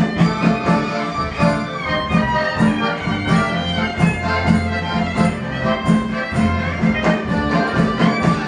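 Klezmer band playing an instrumental passage: a fiddle-led melody over a steady beat of bass notes and drum strokes.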